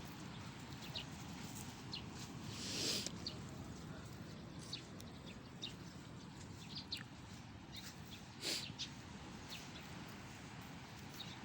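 Birds chirping in short, scattered calls over a steady outdoor hiss, with two brief louder noises about three seconds and eight and a half seconds in.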